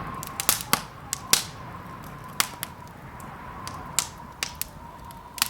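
Wood fire crackling in a fireplace: about a dozen irregular sharp pops and snaps over a soft steady background.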